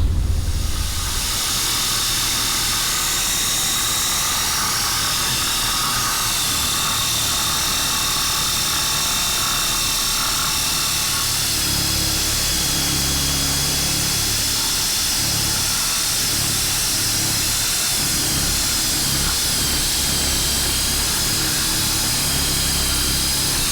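High-speed power cutting tool running steadily with a high whine as it trims the lip off a fiberglass bumper. The pitch wavers slightly as the load changes.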